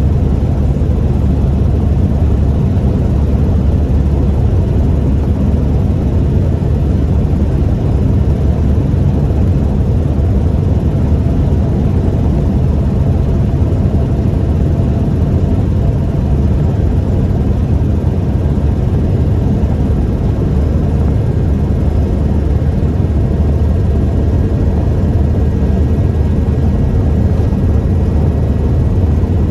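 1998 Toyota Tacoma 4WD pickup being driven: a steady, loud low rumble of engine and road noise that holds even throughout.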